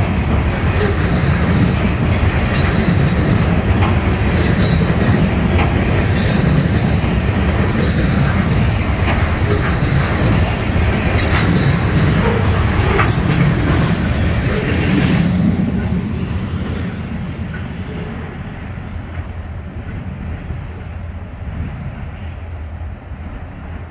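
A freight train of trash container cars rolling past close by: a steady rumble of wheels on rail with a few sharp clicks. The sound drops a little over halfway through and fades as the train moves away.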